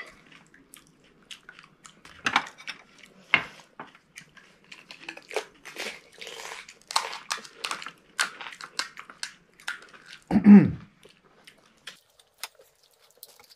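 Fried puri shells of pani puri cracking as they are bitten, then chewed, in a series of short sharp crunches. A short loud voice sound breaks in about ten and a half seconds in.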